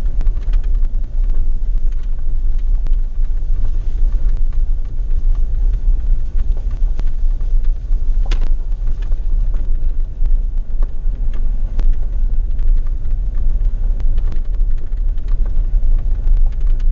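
Vehicle driving on a gravel road: a steady low rumble with scattered sharp clicks.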